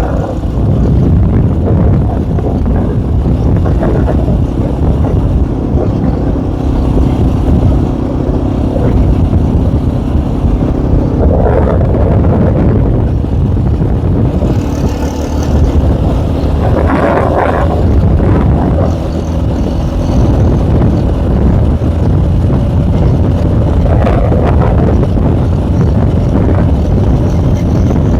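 K Moto ATX small enduro motorcycle's engine running steadily while being ridden, its pitch shifting a little with the throttle, with wind buffeting the microphone.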